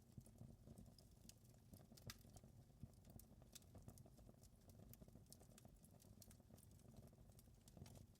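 Wood fire crackling faintly: scattered sharp pops and snaps, a few a second, over a steady low rumble of burning.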